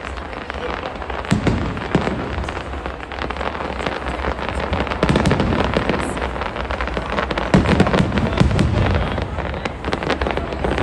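Aerial fireworks display: a dense, continuous crackle of bursting stars with deep booms from shells, the heaviest booms about five seconds in and again around eight seconds.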